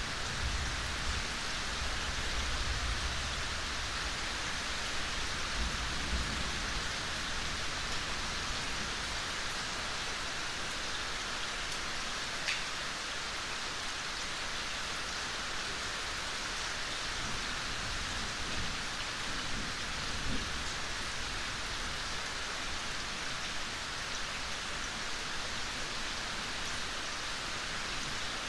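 Steady, gentle rain falling, an even hiss with scattered individual drops, one standing out about twelve seconds in. A low rumble underlies the first few seconds.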